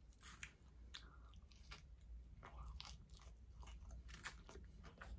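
Faint, close-up chewing of fast food: scattered soft crunches and wet mouth clicks of a person eating a mouthful.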